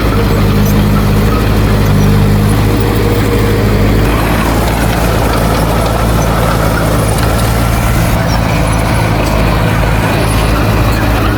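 Heavy diesel engine of earthmoving machinery running steadily, its note shifting slightly about four seconds in.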